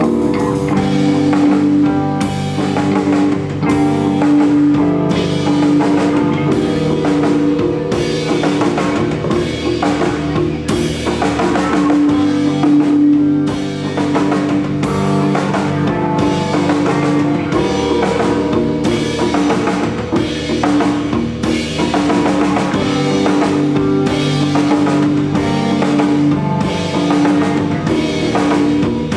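Live rock band playing: a drum kit keeps a steady beat with kick and rimshots under sustained electric guitar and bass.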